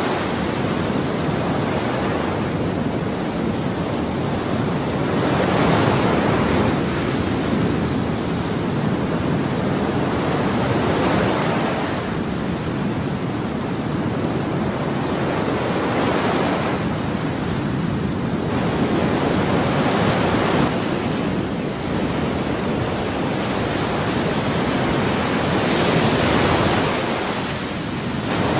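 Ocean waves breaking and washing in, a continuous rush of surf that swells every four to five seconds.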